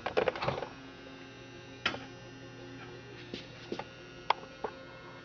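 Steady electrical hum, with a short run of knocks and rattles in the first second and a few single sharp clicks after it, like handling noise.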